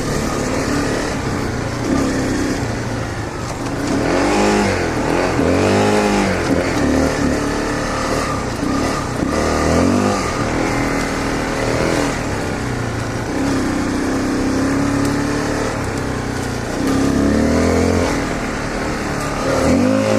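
2013 Honda CRF250L's single-cylinder four-stroke engine being ridden hard on a dirt trail, its pitch rising and falling over and over as the throttle is opened and shut.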